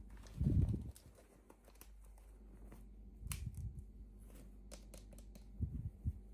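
Hands handling small toy packaging: a few soft bumps and knocks, with faint clicks and crinkles in between, over a low steady hum.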